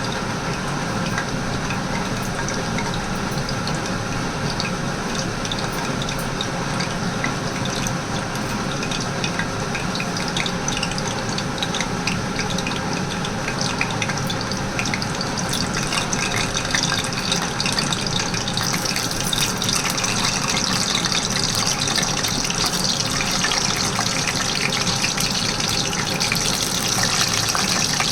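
Water running steadily from a kitchen tap, sounding brighter and a little louder from about two-thirds of the way through.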